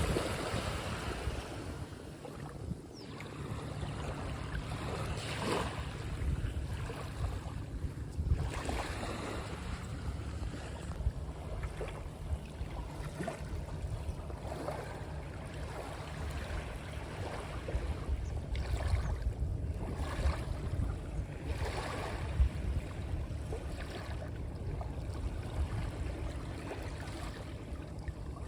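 Sea waves washing in irregular surges every few seconds over a steady low rumble.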